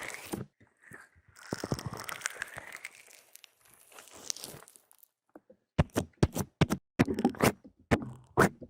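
Close-miked ASMR trigger sounds: soft scraping and rubbing for the first few seconds, then, after a short lull, a run of sharp taps or clicks, a couple per second.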